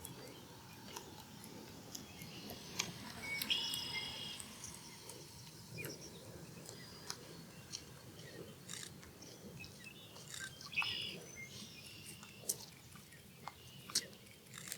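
A bird calling in short, high, whistled chirps, in two brief bouts about three and a half seconds and eleven seconds in, over faint outdoor background noise with scattered light ticks.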